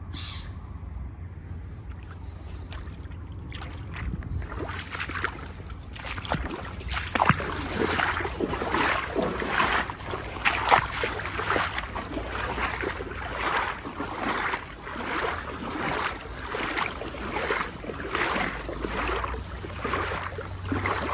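Legs wading through knee-deep floodwater, with a swishing splash at each stride, about one and a half strides a second. It starts a few seconds in.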